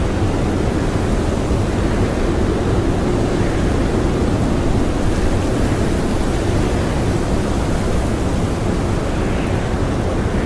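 Blizzard wind blowing as a steady, even rush without distinct gusts or whistling, heavy in the low end.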